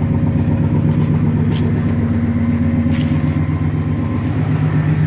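GMC Yukon engine idling steadily, warming up shortly after a cold start in freezing weather after sitting unused for two weeks.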